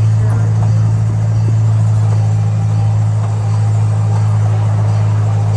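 Emerson Zooline Railroad train running steadily, heard from on board: a loud, even low drone with a haze of running noise over it.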